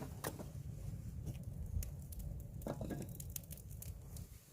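Wood fire crackling under a cauldron: scattered sharp pops and clicks over a steady low rumble.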